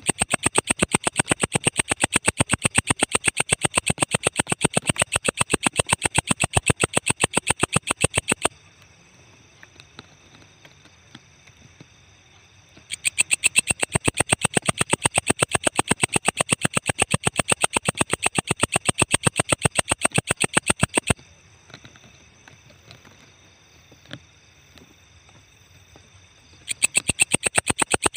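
Walang ecek insect singing: long trains of rapid, even, rasping pulses. Each train lasts about eight seconds and is followed by a pause of several seconds. A train starts again about 13 seconds in and once more near the end.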